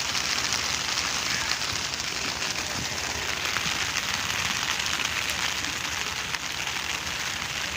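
Steady rain falling, a dense, even hiss of drops with fine pattering ticks.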